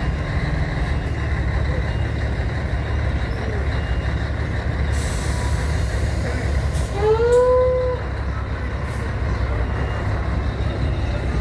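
Large vehicle's engine running with a steady low rumble, with a short hiss of air about five seconds in and a brief rising tone near the eight-second mark.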